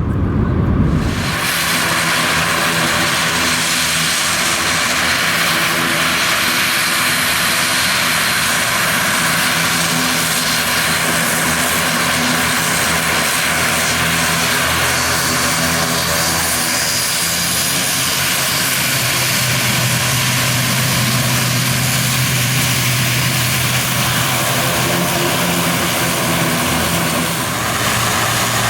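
Turboprop airliner's engines running steadily at close range: a loud, even propeller drone with several steady humming tones over a broad hiss, starting sharply about a second in.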